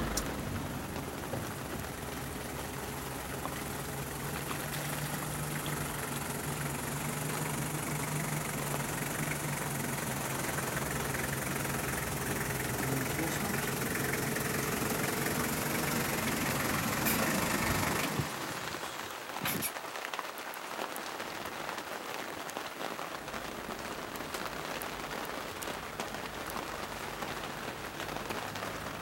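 Heavy rain hissing steadily, with a vehicle engine idling under it. The engine cuts off abruptly about two-thirds of the way through, leaving only the rain and the tapping of individual raindrops.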